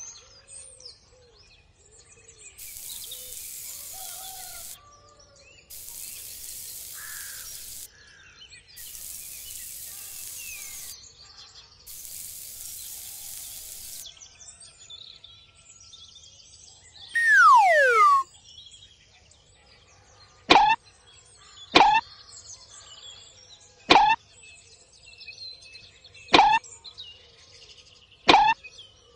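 Faint bird chirping throughout. Four bursts of hissing, each about two seconds long, come in the first half, then a loud falling whistle near the middle. Five short, sharp falling pops follow, spaced one to two and a half seconds apart.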